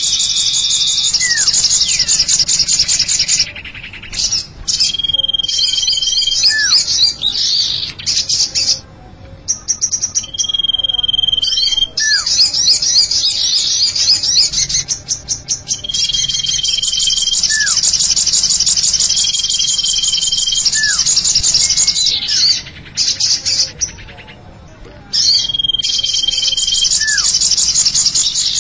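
Lure recording of cipow (sirtu) birdsong: rapid, high, chattering trills alternating with a short steady whistle and a quick down-slurred note. The same phrases repeat every few seconds, broken by brief pauses.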